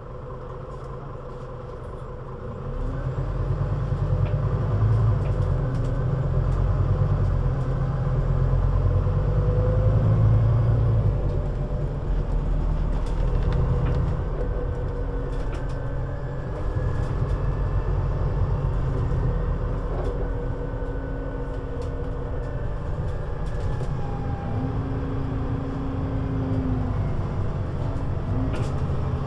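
Scania CN320UA 6x2/2 articulated city bus under way: a deep, steady engine rumble that grows louder about three seconds in, with a faint whine above it.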